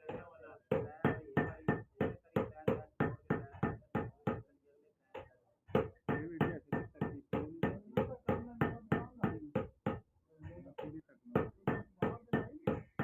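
Fast, even hammer blows, about four a second, pausing briefly about four and a half seconds in and again near ten seconds, then carrying on.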